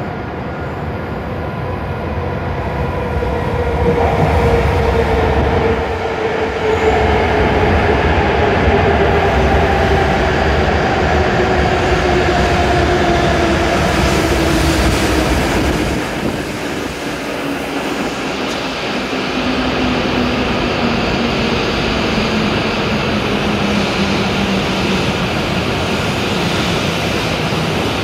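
E7 series Shinkansen train pulling into the platform and braking to a stop. Its running rumble swells about four seconds in as it comes alongside, and a traction-motor whine falls steadily in pitch as the train slows.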